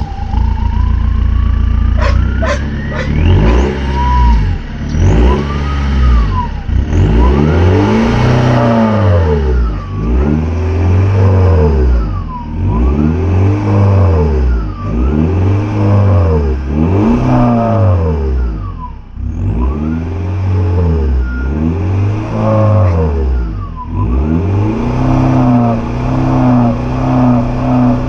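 BMW M3 engine running cold, revved again and again, about one blip every two seconds with the pitch rising and falling each time. It settles to a steady idle near the end.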